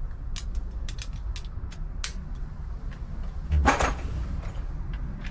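Rummaging through a cluttered toolbox: scattered clicks and clinks of metal tools being moved, with a louder clatter and thump about three and a half seconds in.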